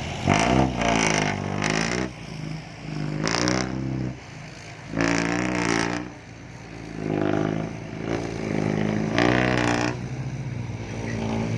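Diesel dump truck engine revved in five or six blips of about a second each over a steady idle, through a loud open exhaust. It is loud even without its exhaust tip fitted.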